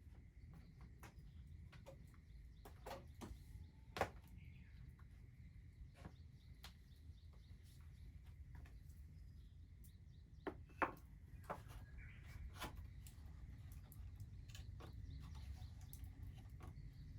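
Wood fire crackling quietly: irregular sharp pops and snaps over a low rumble. The loudest pop comes about four seconds in, and two more come in quick succession past the ten-second mark.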